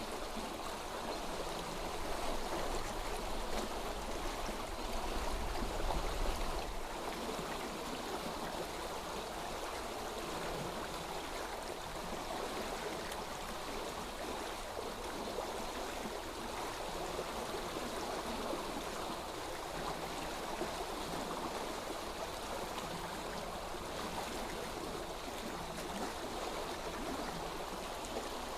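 Steady flowing stream of water, an even rushing babble that does not change; a low rumble swells under it for a few seconds near the start.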